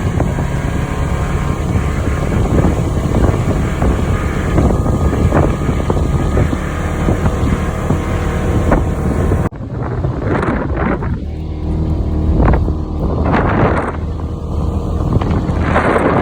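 A Polaris off-road vehicle's engine running under a steady low hum, with wind buffeting the microphone. About nine seconds in, the sound changes abruptly and gusts of wind on the microphone take over.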